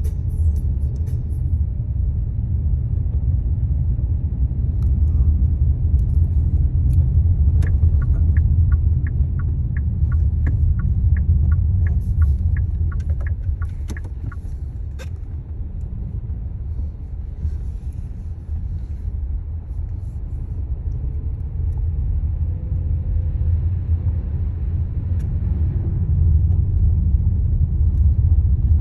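Steady low rumble of a car being driven, heard from inside the cabin. In the middle a regular ticking, about two ticks a second, runs for several seconds and stops.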